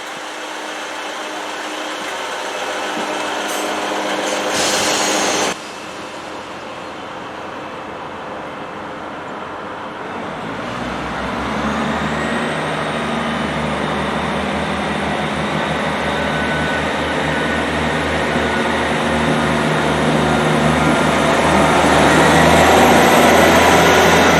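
A train approaching through a station, its steady low hum and a rising high whine growing louder. A short loud hiss cuts off suddenly about five seconds in.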